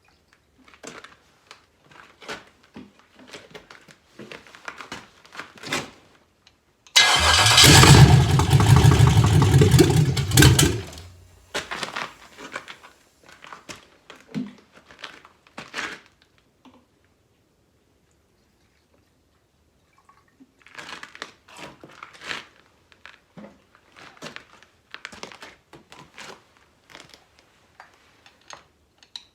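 LS V8 engine on its first start: spells of cranking and sputtering, with a loud burst of firing and running for about three and a half seconds before it dies, then a silent pause and more cranking near the end.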